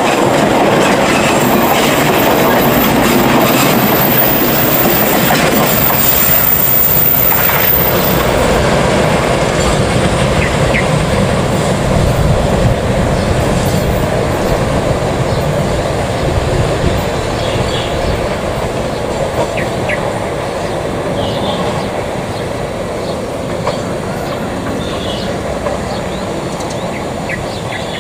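Passenger train rolling past at close range, its wheels clattering on the rails. It is loudest for the first several seconds, then fades steadily as the last coach draws away.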